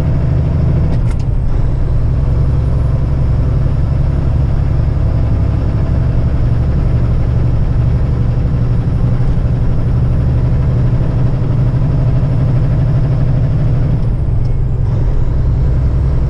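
Steady engine drone and road noise heard from inside a truck cab at highway speed.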